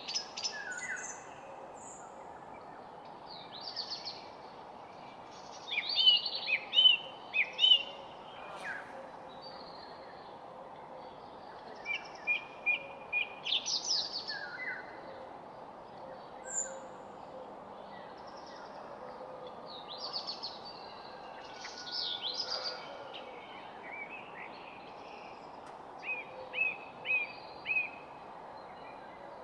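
Several songbirds chirping and singing in short phrases and trills, over a steady background hiss.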